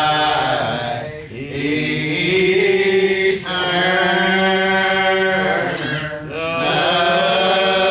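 A slow gospel hymn sung in church, voices holding long drawn-out notes, with short breaks between phrases about a second in, around three and a half seconds in and around six seconds in.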